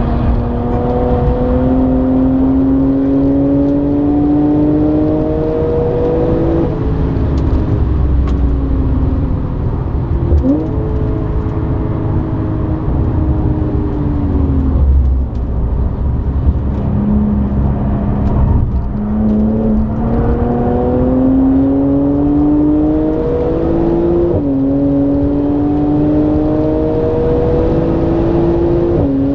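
Audi B8 S4's supercharged 3.0-litre V6, with a Milltek non-resonated exhaust and stage 2 tune, heard from inside the cabin under hard track driving. It pulls up through the revs to an upshift about six seconds in, falls away off the throttle with a quick downshift blip around ten seconds, then pulls hard again through an upshift near the end.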